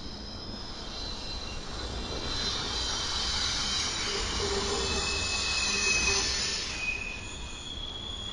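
Intermodal freight train cars rolling past over a low rumble, their steel wheels squealing in thin high tones. The noise swells a couple of seconds in, is loudest about six seconds in, then eases off.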